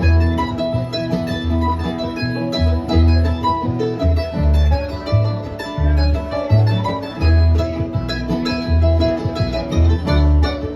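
Acoustic string band playing an instrumental break in a bluegrass/old-time tune: guitar, mandolin and banjo picking over steady low bass notes on the beat, about one and a half a second.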